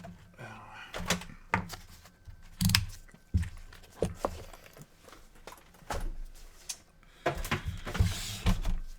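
Scattered light clicks, taps and knocks of hands handling tape and parts inside an opened PS4 console, with a longer scratchy rasp near the end.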